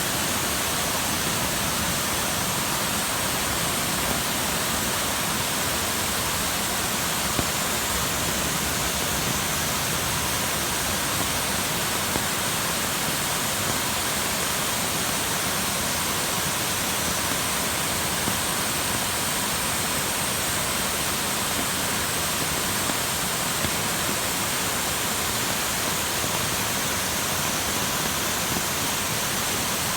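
Valley waterfall running full after rain: a steady, unbroken rush of falling water.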